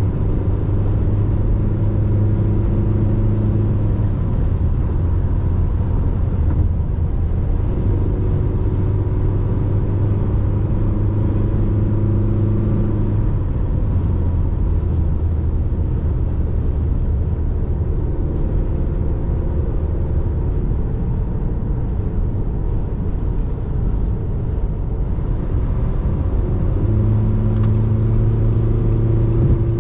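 RAM Rampage's 2.2 turbo-diesel four-cylinder engine pulling steadily while driving, over steady road noise. The engine note holds and then steps to a different pitch several times as the revs change.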